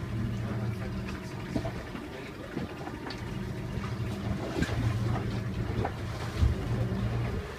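Glass-bottom boat's motor running with a steady low hum, over the wash of water around the hull.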